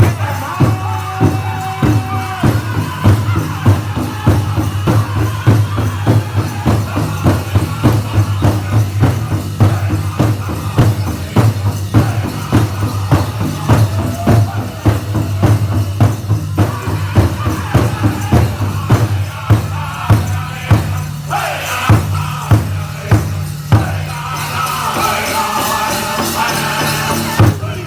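Powwow drum group singing a chicken dance song over a steady, even beat on a big drum, with dancers' bells jingling.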